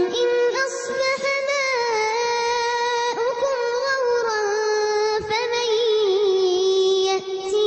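A young girl's voice in melodic Quran recitation (tajwid), holding long drawn-out notes that slide slowly from pitch to pitch.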